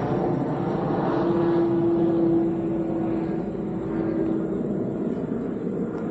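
Distant engine drone: a steady hum that sinks slightly in pitch, with a swell about two seconds in.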